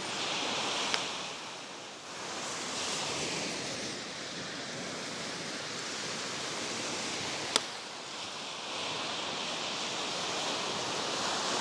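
Campfire burning, with trash among the wood: a steady rushing hiss that swells and fades, broken by two sharp pops, about a second in and about seven and a half seconds in.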